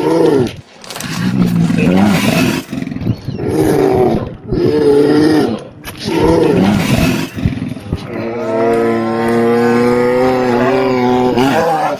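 Grizzly bear roaring: a series of short, rough roars, then a long, steady bellow held for about four seconds near the end.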